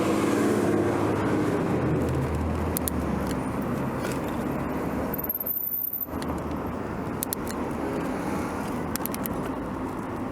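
City road traffic heard from a moving bicycle: a steady rush of vehicle noise, with a motor vehicle's engine hum in the first few seconds, a brief lull about halfway, and a few sharp ticks near the end.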